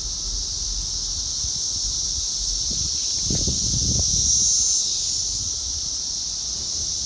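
Chorus of 17-year periodical cicadas singing in a tree: a steady high-pitched drone that swells briefly about four seconds in. A few low rustles come a little past three seconds in.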